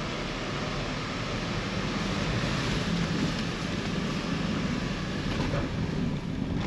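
Steady vehicle rumble with a low engine hum, heard from inside the vehicle.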